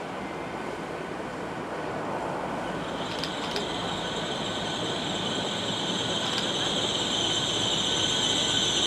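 Great Western Railway Hitachi Intercity Express Train approaching along the platform, its running noise growing steadily louder. A high steady squeal comes in about three seconds in and strengthens as the train draws near.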